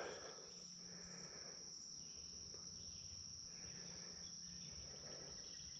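Faint, steady high-pitched chorus of insects singing.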